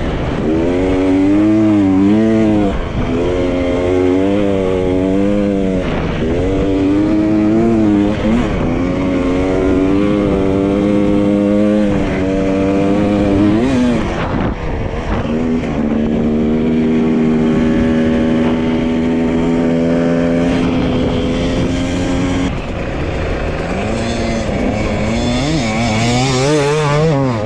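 Dirt bike engine being ridden, its revs rising and falling with the throttle. The revs hold steady for several seconds in the middle, then climb again near the end.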